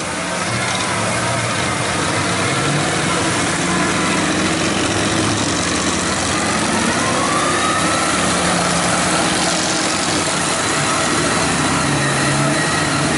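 Big diesel mud truck engine running, its pitch wavering up and down as it is revved.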